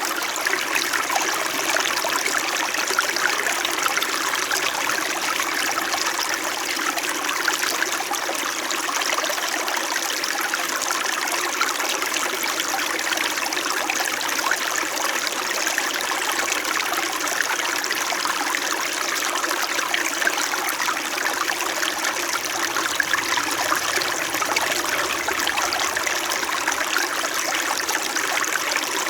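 Small mountain stream flowing and babbling over rocks, a steady even burble of trickling water.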